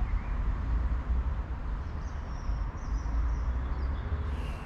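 Outdoor ambience dominated by an uneven low rumble of wind buffeting the microphone, with faint birdsong chirping in the middle of it.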